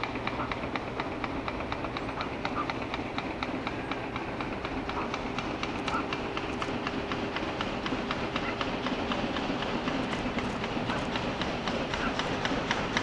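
Narrow-gauge C2 steam locomotive working a train, its exhaust beating in a rapid even rhythm and growing slowly louder as it approaches.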